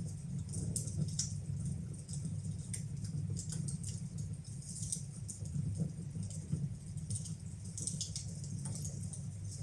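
Wood fire burning in a fireplace: irregular crackles and pops over a steady low rumble.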